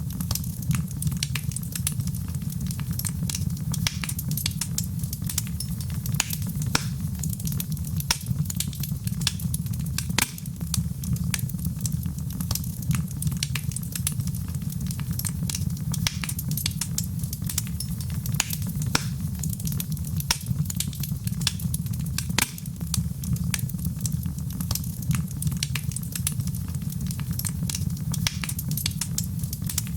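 Fire in a fireplace crackling steadily, with frequent sharp irregular pops over a low, even rumble of the flames.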